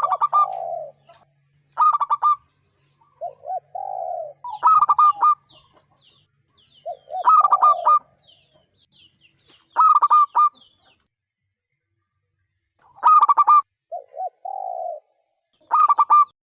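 Zebra dove (perkutut) cooing: repeated phrases every two to three seconds, each a low rolling coo followed by a quick run of clipped, staccato notes. Faint high chirps of smaller birds come in briefly near the middle.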